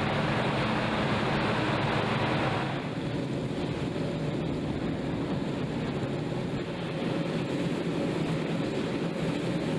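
Steady engine drone under a rushing hiss, the hiss easing about three seconds in.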